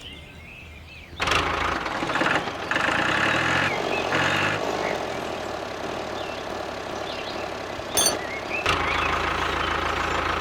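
A small engine starts about a second in and keeps running, with a sharp click near the end and a deeper hum picking up just after. Birds chirp before it starts.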